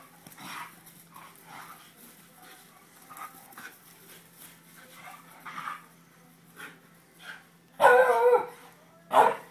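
Dogs at play, a greyhound among them: a run of short, quiet vocal sounds, then two loud barks near the end, about a second apart.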